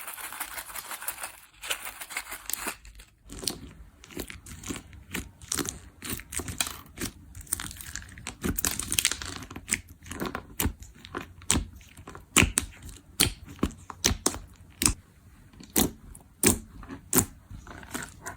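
Slime being squeezed and pressed by hand: a dense crinkly crackle for the first few seconds, then a run of sharp, irregular clicks and pops, a few each second.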